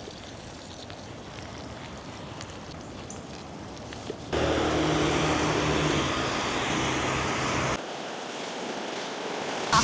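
Street traffic and wind noise on the microphone while cycling. A louder stretch of traffic with a low engine hum starts suddenly about four seconds in and drops away just before eight seconds.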